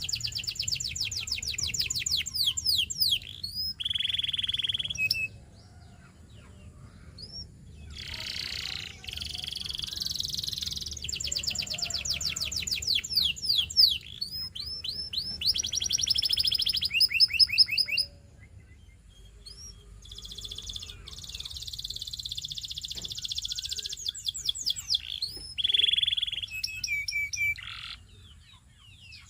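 Domestic canary singing: high-pitched phrases of fast repeated trill notes and rolling trills, broken by short pauses of a second or two, about a fifth, two-thirds and nine-tenths of the way through.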